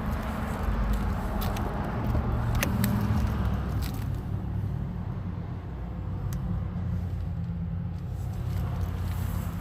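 Supercharged 6.2-litre HEMI V8 of a 2015 Dodge Hellcat running at idle through a Borla aftermarket exhaust, a steady low engine sound that swells a little about one to three seconds in, with a few faint ticks.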